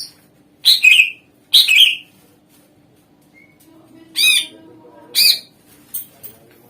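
A cucak ijo (green leafbird) singing in loud, short bursts: two sharp calls close together about a second in, and two more about four seconds in, each note sweeping downward. A couple of brief clicks follow near the end.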